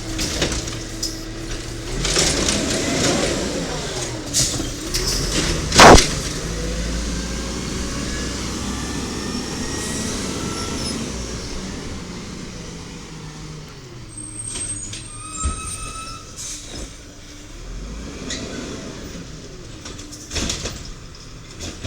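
1993 WhiteGMC diesel garbage truck running while its Amrep automated side-loader arm works, its engine and hydraulics rising and falling in pitch. A loud bang comes about six seconds in, a brief high whine about two thirds of the way through, and more knocks near the end.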